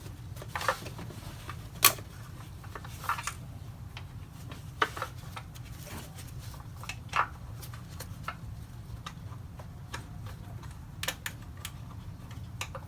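Irregular small metallic clicks and taps, one every second or two, of a 10 mm wrench being fitted and worked on an ignition coil bolt by hand inside a minivan's engine bay, over a low steady hum.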